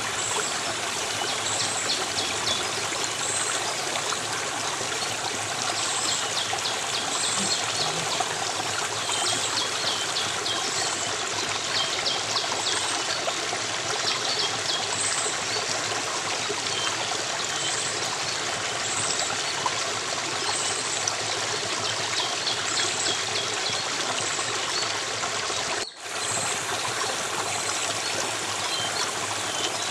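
Stream water flowing steadily, with short high chirps repeating about once a second over it. The sound cuts out for an instant near the end.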